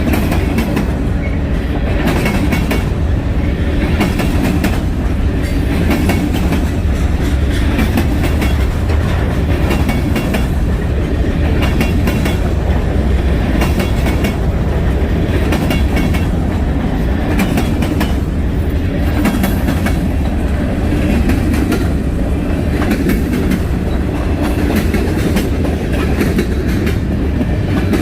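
Freight train cars rolling past at a steady speed: a loud, continuous low rumble with a rapid clickety-clack of wheels over the rail joints.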